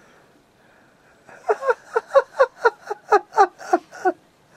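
A person laughing in a rapid run of about a dozen short, even bursts, about four a second, starting about a second in.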